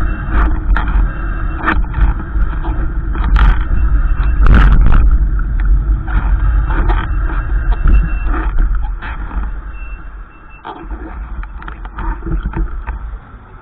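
Wind buffeting the microphone: a loud, gusting rumble with sharp crackles, easing off over the last few seconds.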